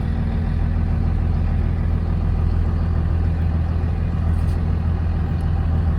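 A truck engine running with a steady low drone.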